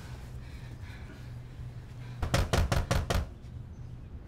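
Hard knocking on a door: a quick run of about six heavy knocks a little over two seconds in, someone demanding to be let in.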